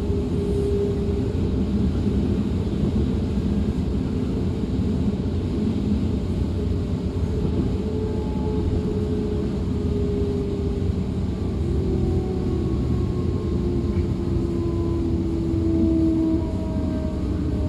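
Ride noise of a DB Class 425 electric multiple unit: a steady low rumble of the train running on the track, with the whine of its electric traction drive in several thin tones that shift in pitch, a few sliding downward near the end.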